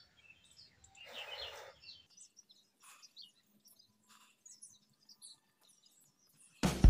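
Birds chirping in short, scattered calls, with a brief burst of noise about a second in. Music with guitar and drums cuts in loudly just before the end.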